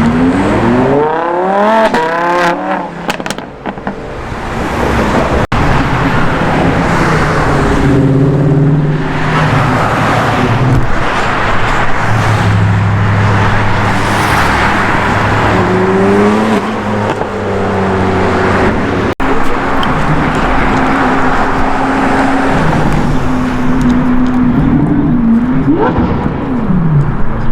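High-performance car engines revving and accelerating away, one rising sharply in pitch through the first few seconds. Engine noise carries on throughout, with another rising rev in the middle and a quick rev blip near the end.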